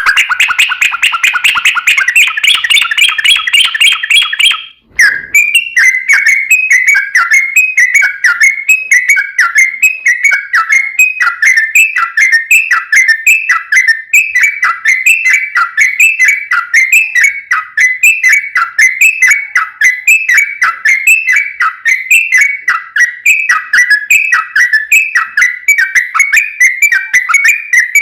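Yellow-vented bulbul (trucukan) singing a long, rapid run of song: a dense chattering burst for the first few seconds breaks off abruptly about five seconds in, then gives way to quick, evenly repeated bubbly notes.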